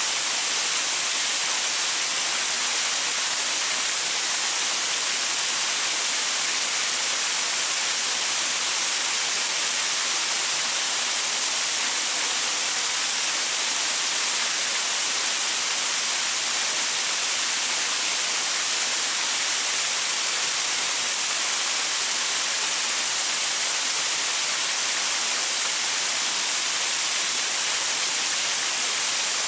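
Small waterfall pouring onto rocks: a steady, unbroken hiss of falling and splashing water, strongest in the high range.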